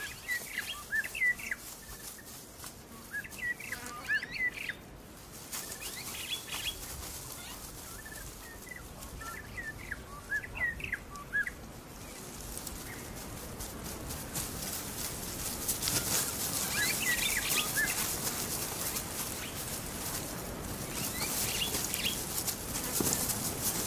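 Small birds chirping in short clusters of quick high notes, recurring every few seconds, over a steady outdoor hiss that grows louder in the second half.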